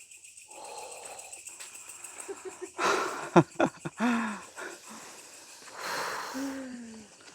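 A man breathing hard and sighing: breathy exhales with two short falling groans, about four seconds in and again near the end, and a few sharp clicks in between. A faint steady high whine of insects runs behind.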